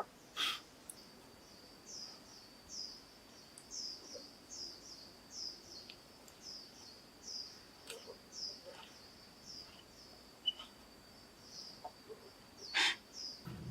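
A bird giving a long run of short, high chirps, one or two a second, over a faint steady high-pitched insect-like drone. Two sharp snaps, the loudest sounds, come shortly after the start and near the end.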